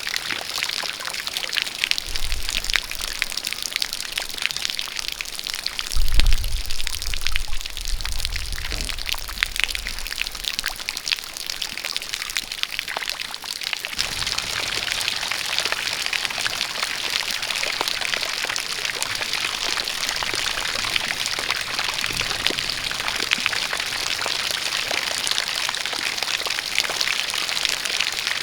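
Rain falling with a jet of water pouring, a steady hiss full of fine drop patter. A low rumble comes about six seconds in. From about halfway through the water sound turns denser and steadier.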